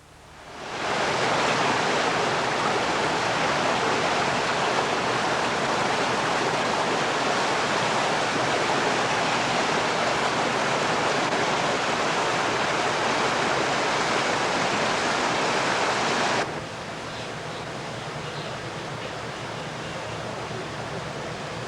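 Steady rush of water, like a waterfall, swelling in within the first second; about two-thirds of the way through it drops suddenly to a quieter steady rush.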